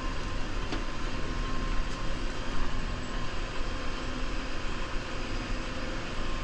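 New Holland Powerstar 75 tractor's diesel engine running steadily under load, with a faint steady whine over the engine noise.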